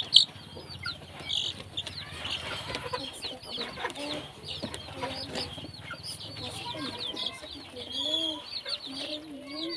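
A flock of chickens clucking, with a steady stream of short high peeps over lower calls, and one sharp knock just after the start.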